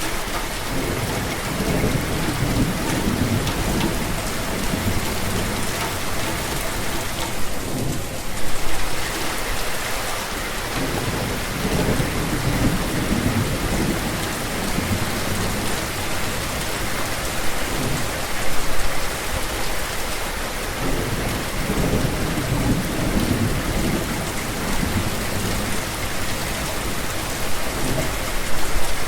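Steady rain falling, with low rolling thunder rumbling up and fading away several times.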